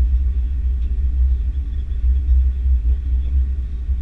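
Steady low rumble of an Airbus A330-300 airliner taxiing, with a faint hum from its Rolls-Royce Trent 700 engines.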